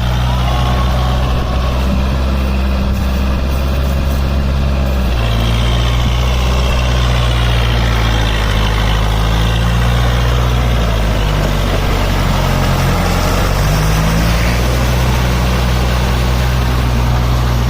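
Kubota tractor's diesel engine running steadily, its note shifting about five seconds in and again briefly near the two-thirds mark.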